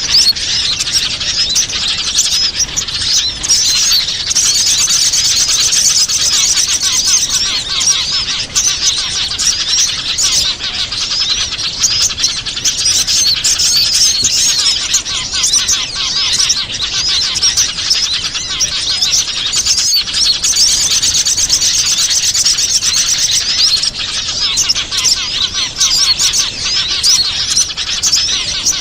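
Dense, unbroken chorus of many small songbirds chirping and trilling in high, rapid notes: a bird-lure (pikat) recording of small wild birds, used to draw them in.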